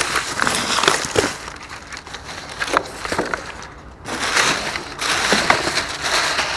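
Rustling, crunching and crackling of trash bags and their contents being dug through and handled in a dumpster, with many small clicks and knocks. It eases off in the middle and picks up again about four seconds in.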